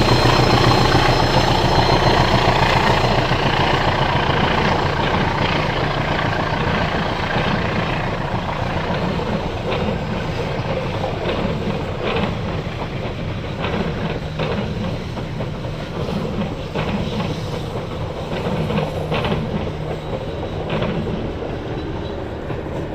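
Train running on rails: a dense rumble that slowly grows fainter, with the clickety-clack of wheels over rail joints from about five seconds in.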